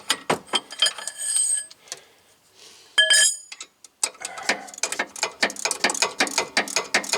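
Ratchet wrench clicking rapidly as a thread-locked hub bearing bolt is worked out. About three seconds in there is a short ringing metallic clink, and after a brief pause the ratcheting resumes steadily at several clicks a second.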